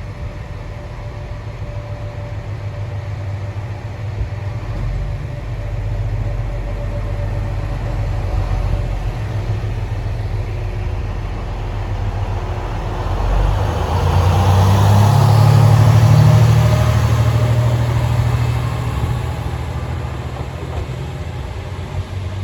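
Diesel railcar engine running with a steady low hum, swelling to its loudest about two-thirds of the way through with a rush of rolling noise, then easing off as the railcar pulls away.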